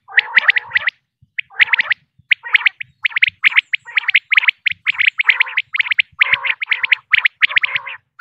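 Female common quail calling: rapid clusters of short, sharp chirping notes, three to five at a time, following one another almost without pause, with a brief gap about a second in.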